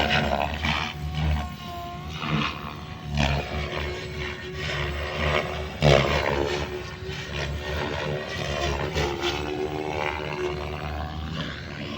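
Goblin RC helicopter flying 3D aerobatics: the rotor and drivetrain whine rises and falls in pitch, with repeated surging whooshes from the blades. The loudest surge comes about six seconds in.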